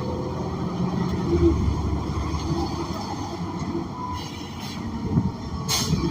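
Inside a moving New Flyer XN40 bus: its Cummins Westport ISL G natural-gas engine running with road and body noise, easing off a little partway through, and a brief sharp noise near the end.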